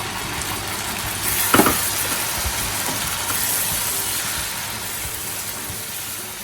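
Sliced onions frying in hot oil in a pan, sizzling steadily for a sambal base. The sizzle grows louder about a second and a half in, starting with a brief sharp burst.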